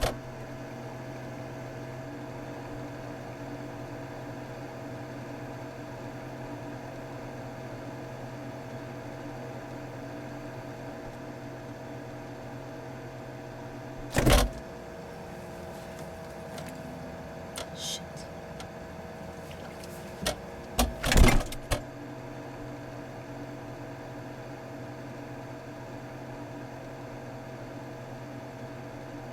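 Steady electric hum of a refrigerator running, with a loud knock about fourteen seconds in and a short cluster of knocks and clatters a few seconds later.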